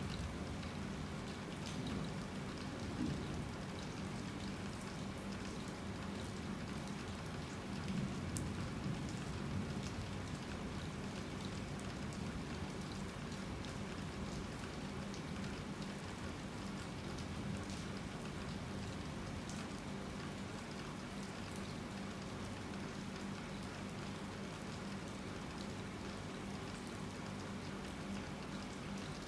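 Heavy rain falling steadily, with occasional sharper drop hits standing out.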